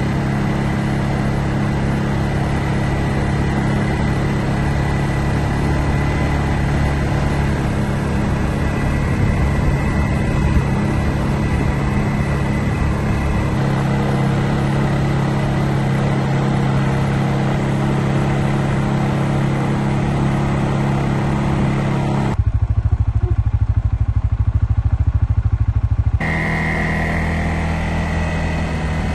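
A small vehicle engine running steadily while driving. About 22 seconds in, the sound drops abruptly to a low rumble for about four seconds, then the steady engine sound returns.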